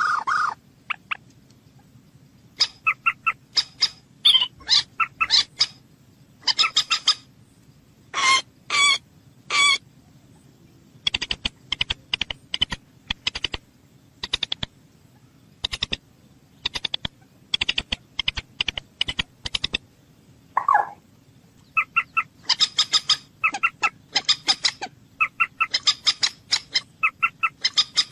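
Common moorhen calling: short harsh notes repeated in quick runs, with brief pauses between the runs.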